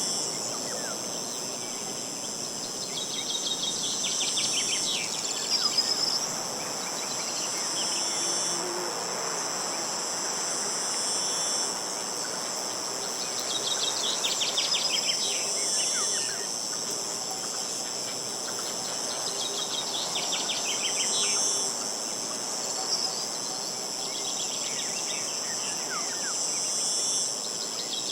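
Crickets or similar insects chirring steadily and high-pitched, while a songbird sings a short, rapid trilled phrase every few seconds.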